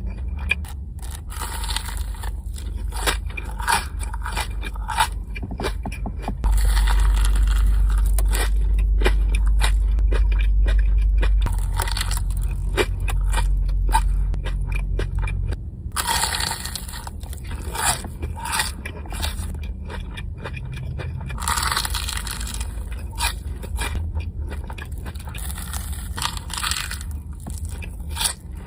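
Close-up eating of a Korean corn dog: crunching bites into the fried batter and chewing, in separate bursts every few seconds, with a low rumble through the middle stretch.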